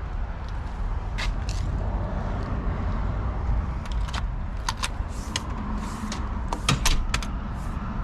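Scattered sharp clicks and light knocks from door lock hardware being handled and worked in a steel door, several in quick succession in the second half, over a steady low rumble.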